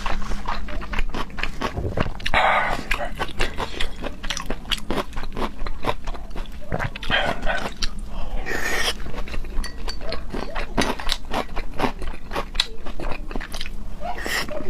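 Close-miked wet chewing of raw seafood: many sharp mouth smacks and clicks, with a few longer slurps about two seconds in, around eight seconds and near the end.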